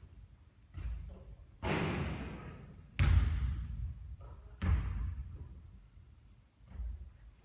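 A basketball hitting the hoop and bouncing on the court: about five heavy impacts, irregularly spaced, each trailing off over a second or so. The loudest comes about three seconds in.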